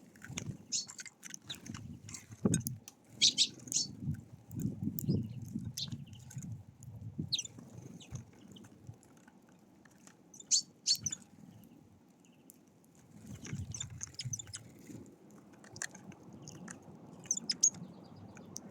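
Small birds at a feeder giving short, scattered chirps and calls, with irregular low, muffled sounds in between.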